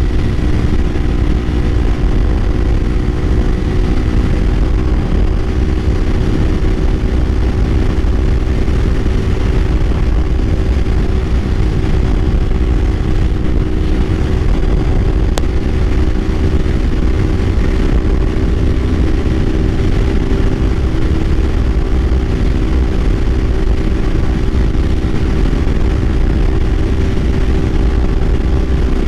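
Kawasaki Ninja 500's parallel-twin engine running at a steady cruise, its pitch holding level, under a heavy low rumble of wind on the microphone.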